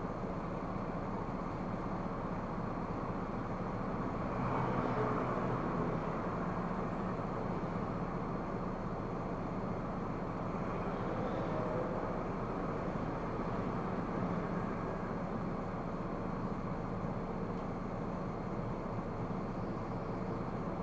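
Steady road and engine noise of a moving car, heard from inside the cabin through a dashcam microphone, swelling briefly about four seconds in.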